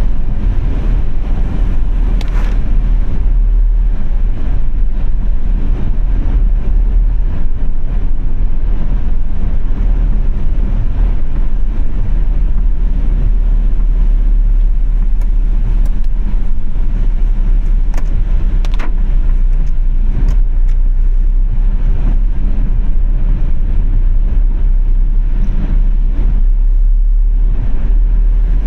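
Car driving in the rain: a steady, loud low road and engine rumble, with a few faint ticks here and there.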